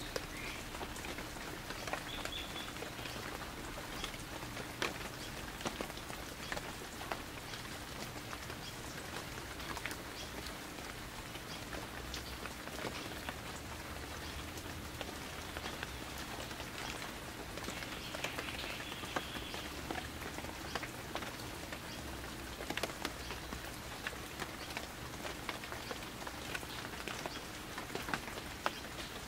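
Light rain falling steadily: an even hiss broken by many small sharp ticks of drops striking nearby surfaces.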